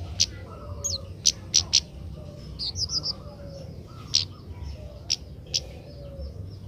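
Kemade bird calling: a string of short, sharp, high chirps at uneven intervals, with a brief rapid run of notes about three seconds in. A steady low hum runs underneath.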